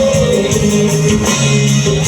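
Band music with guitar and a steady beat, playing between sung lines of a Brazilian romantic song.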